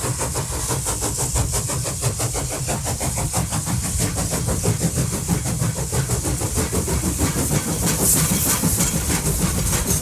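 Peak Tram funicular car running on its track: a steady rumble with a fast, continuous rattle.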